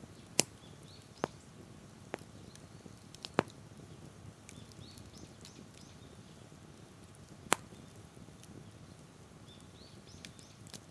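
Wood campfire crackling: about six sharp pops from the burning wood over a low, steady hiss, the loudest about half a second in and at about seven and a half seconds. Faint, short bird chirps come in the middle and near the end.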